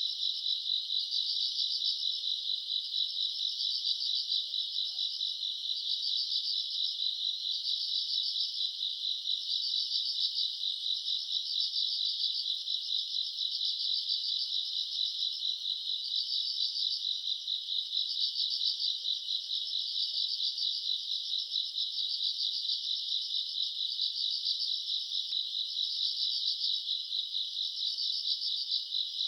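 Grass insects, crickets among them, chirping in a dense night chorus: a steady high-pitched pulsing trill that swells and eases about every two seconds.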